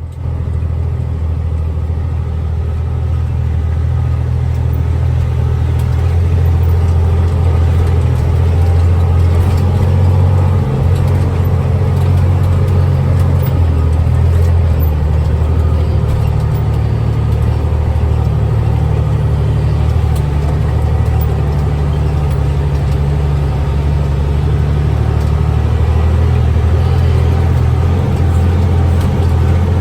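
Log truck's diesel engine running steadily under way, a continuous low drone with road noise.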